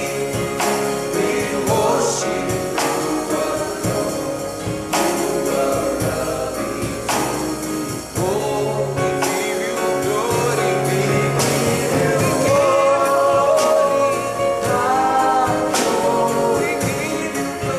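Live gospel worship song: group singing over a band with a steady beat.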